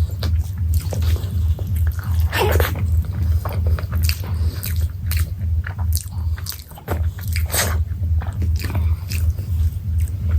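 Close-miked eating: wet chewing, biting and lip smacks as someone eats chicken curry by mouthfuls, over a steady low hum that drops out briefly about two-thirds of the way in.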